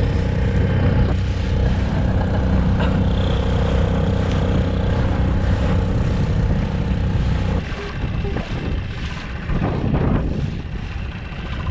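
Dinghy outboard motor running steadily, then dropping away about two-thirds of the way through, followed by a few knocks.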